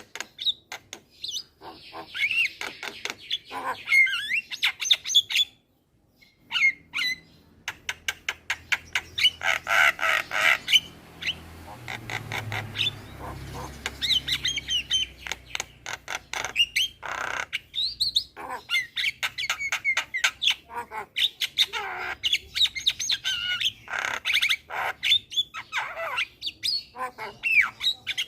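Javan myna (jalak kebo) singing, a fast chattering run of harsh squawks, clicks and whistled chirps, with a short break about six seconds in.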